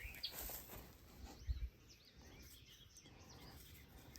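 Faint outdoor ambience: a few faint bird chirps over a light low rumble, with a brief low bump about one and a half seconds in.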